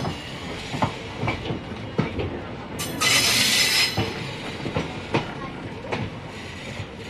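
Train wheels clacking over rail joints at low speed, a series of sharp knocks, with a loud hissing squeal for about a second, three seconds in.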